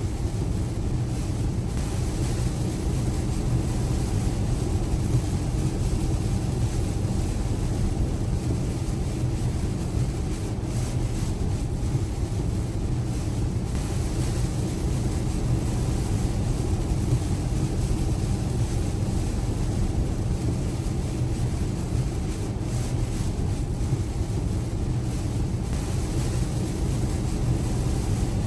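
Steady rumble and hiss of a Tesla car driving on a rain-soaked road in heavy rain, from tyres on the wet surface and rain on the car.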